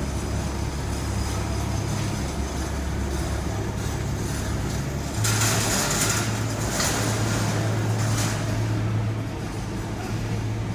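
A shuttle van driving, heard from inside: steady engine hum and road noise. About five seconds in, the engine note steps up and a louder hiss of tyre and wind noise rises for a few seconds before easing back.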